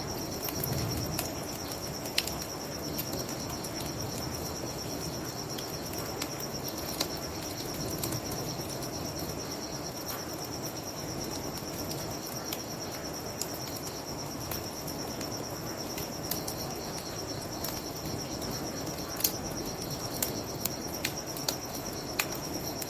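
Crickets trilling steadily over the crackle of a wood bonfire, with scattered sharp pops that come more often near the end, all above a low, even rushing sound.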